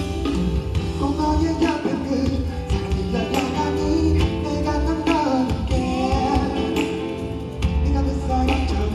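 Live pop concert music over the venue's sound system: a heavy, steady bass beat with a singing voice over it.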